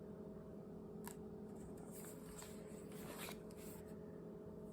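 Quiet room tone with a faint steady hum, broken by two faint light clicks about one and three seconds in.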